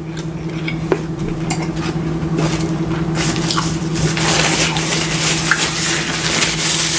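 Close-miked chewing and wet mouth sounds of eating, with small clicks, over a steady low hum. Near the end a paper napkin rustles as it is pulled out.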